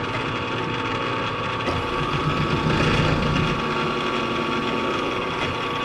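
Milling machine running and taking a cut: a steady motor hum with a constant high whine, the cutting noise growing louder about two seconds in.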